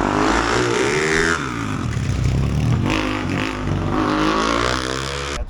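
Motorcycle engine revving hard, its pitch rising and falling several times, cutting off abruptly near the end.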